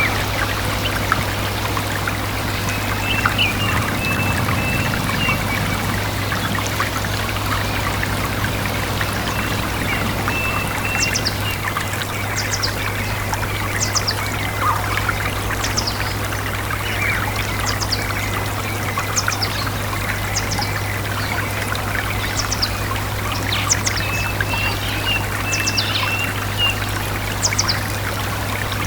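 A stream running steadily, with a bird repeating short, high, downward-sliding notes about once a second from about ten seconds in, and a few brief chirps scattered through. A steady low hum lies underneath.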